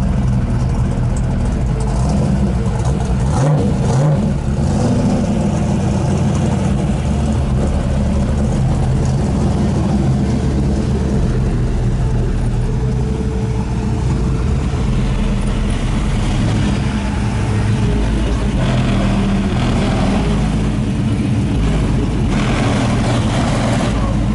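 Car engine running loud and low, revved up briefly about three to four seconds in.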